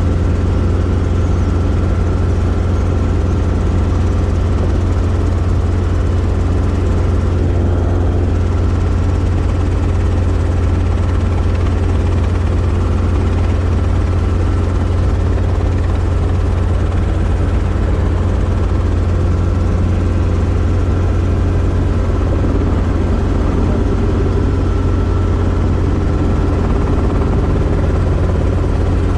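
Robinson R22 helicopter in flight: the steady, loud drone of its piston engine and two-blade rotor, holding even throughout.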